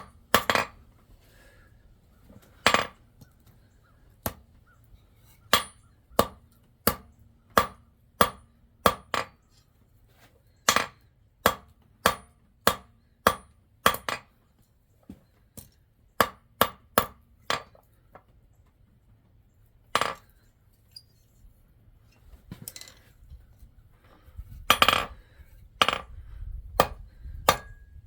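Hand hammer striking a piece of pure silver on an anvil as a ring is forged: sharp, separate blows, one or two a second in runs with short pauses between.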